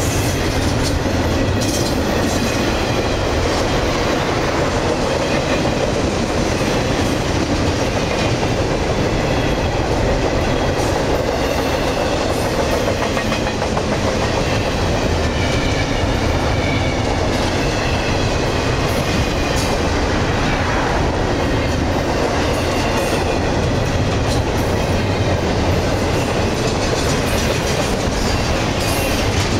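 A long intermodal freight train passes close by at speed: a steady rumble of steel wheels on rail with the clickety-clack of wheels over rail joints. Faint high-pitched wheel squeal comes and goes.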